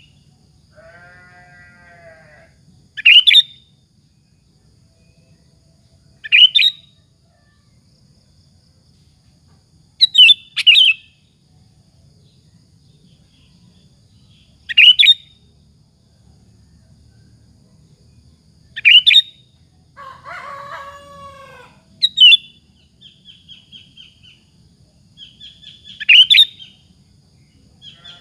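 Sooty-headed bulbul (kutilang) singing: short, loud, sharp phrases every three to four seconds, one of them doubled, then a quieter run of quick chattering notes near the end. Fainter, lower calls from another animal come about a second in and again about twenty seconds in.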